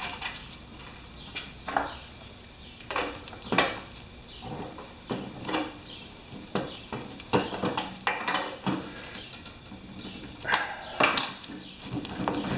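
Irregular metallic clinks and clatter of hand tools and metal mower parts being handled, a dozen or so short knocks at uneven intervals.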